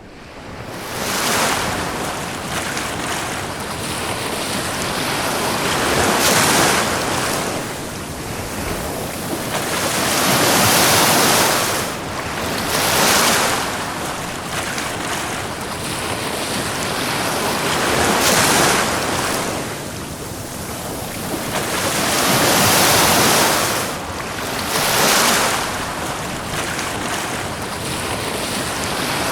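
Ocean waves breaking and washing up a beach, the surf swelling and easing every few seconds. It fades in over the first second.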